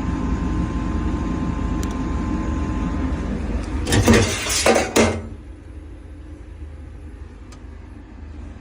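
Mechanical running noise from the top of a custom refrigeration unit, a steady low hum with rattling that is the noise the unit is faulted for. There is a loud burst of metallic clattering about four seconds in. After that it settles to a much quieter steady hum.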